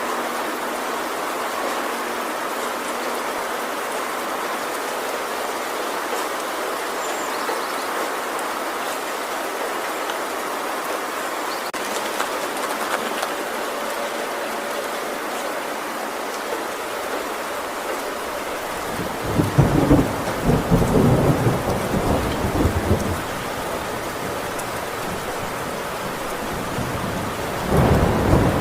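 Heavy rain falling steadily on a tin roof, with a loud rumble of thunder about two-thirds of the way in lasting a few seconds, and another thunder rumble starting near the end.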